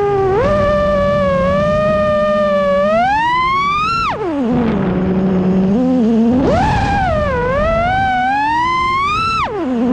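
FPV racing quadcopter's brushless motors whining, the pitch sliding up and down with the throttle. The whine climbs steeply twice, about four seconds in and again near the end, and drops sharply after each climb.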